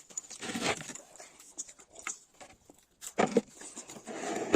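Close-up eating sounds: chewing and crunching of burger and noodles, in irregular noisy bursts with small clicks, the loudest about half a second in and again after three seconds.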